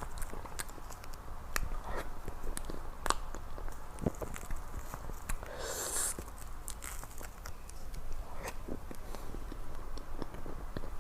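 Close-miked eating: chewing and biting with many small wet mouth clicks. About six seconds in there is a short hissing slurp or sip.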